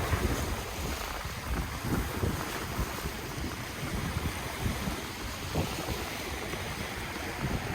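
Ocean waves washing on the shore in a continuous surf wash, with wind gusting on the microphone and adding an uneven low rumble.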